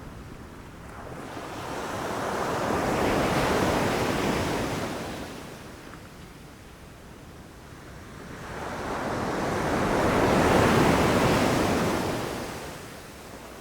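Ocean waves surging onto a shore, two in turn: each rushes in over a couple of seconds, breaks and washes back out. The first peaks about three and a half seconds in and the second, slightly louder, about ten and a half seconds in.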